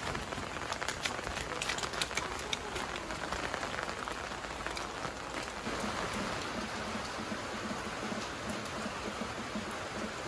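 Rain falling on a wet concrete yard, with many sharp drop strikes in the first few seconds. A faint low pulsing sound sits under it in the second half.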